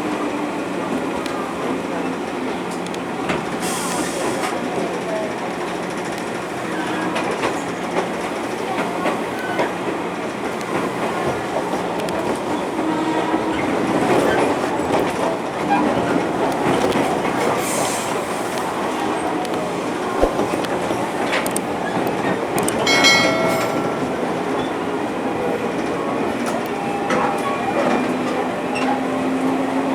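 JR 205 series electric multiple unit running on the line, its traction motors whining over the steady rumble and clack of the wheels on the rails; near the end the motor tone rises as the train picks up speed. A brief sharp, high sound cuts through about two-thirds of the way in.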